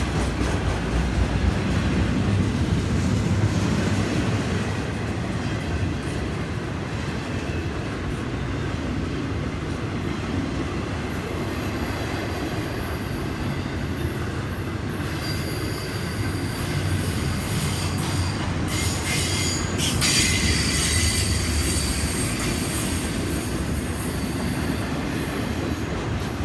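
A long freight train's cars rolling past with a steady rumble of wheels on rail. From a little past halfway, high thin wheel squeal rings over the rumble.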